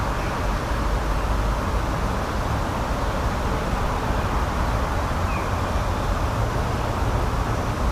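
Steady, low rushing outdoor noise, even throughout, with no distinct events.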